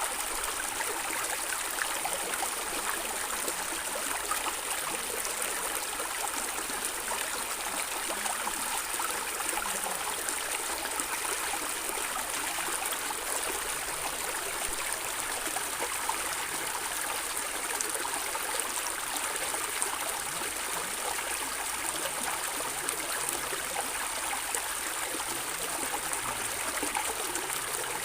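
A stream of water flowing and gurgling steadily, an even rush of moving water with no breaks.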